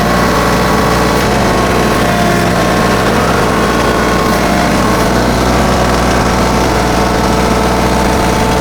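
A TYM 2515H compact tractor's 25 hp diesel engine running steadily at working speed while it powers a backhoe. Its note dips and rises slightly.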